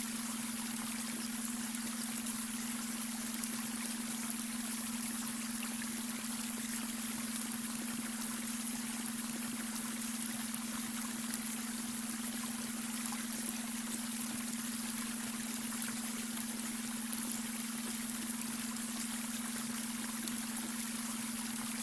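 Babbling brook: water flowing and trickling steadily over stones, with a steady low hum tone underneath, the beta brainwave tone blended into the soundscape.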